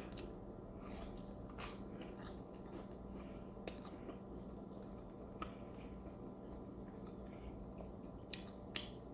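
Faint chewing of a chicken nugget, with scattered small mouth clicks.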